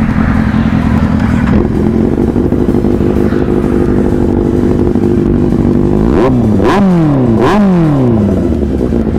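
Motorcycle with an SC-Project aftermarket exhaust idling loudly, then revved in three quick throttle blips, each rising sharply and falling back to idle.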